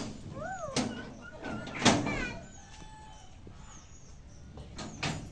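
A parrot giving short whistling calls that swoop up and down in pitch, among several sharp knocks, the loudest about two seconds in.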